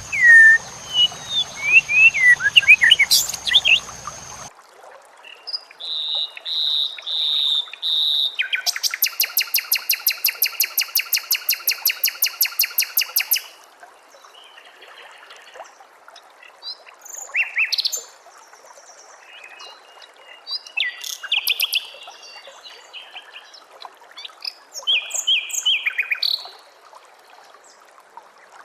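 Recorded songbird calls spliced one after another: quick chirps and whistles, a run of repeated notes, then a fast, loud trill of about six notes a second lasting nearly five seconds, followed by scattered short chirps. The background changes abruptly between pieces, as in a compilation of separate recordings.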